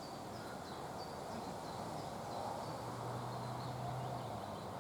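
Small birds calling with short, high chirping notes, repeated several times a second, over a steady background hiss. A low steady hum comes in past the middle for about a second and a half.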